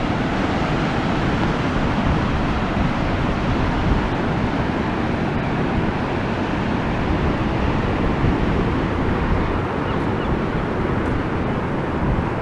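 Strong wind buffeting the microphone over the steady wash of rough sea surf.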